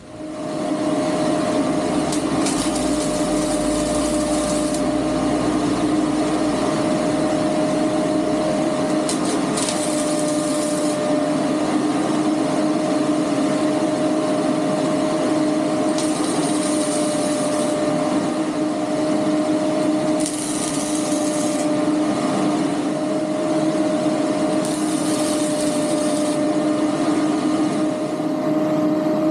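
GY6 single-cylinder four-stroke scooter engine running at a steady speed, with a steady hum that holds one pitch, loud and unbroken.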